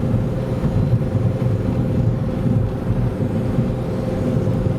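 Inside the cabin of a Skoda Fabia with a 1.4 TDI three-cylinder pump-injector turbodiesel, cruising at about 90 km/h: a steady low engine drone and road rumble with a faint steady hum above it.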